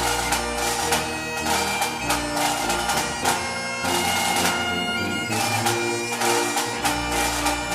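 Background music: an instrumental passage with bagpipes playing a melody over a steady held drone.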